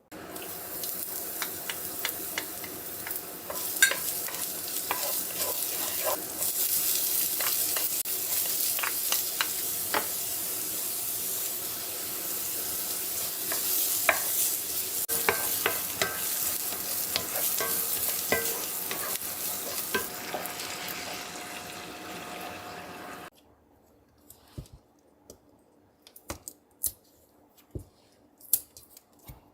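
Food frying and sizzling in a hot pan while being stirred, with a utensil clicking and scraping against the pan. The sizzle cuts off suddenly about 23 seconds in, leaving only a few light knocks.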